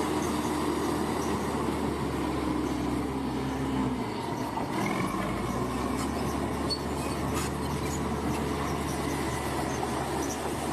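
Heavy construction machine's diesel engine running steadily under work, its note shifting about four seconds in.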